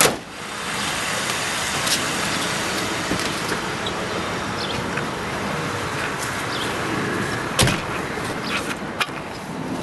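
2001 Lincoln Town Car running as it is moved back after the oil change: a steady noise, with a sharp knock at the start and another about three-quarters of the way through.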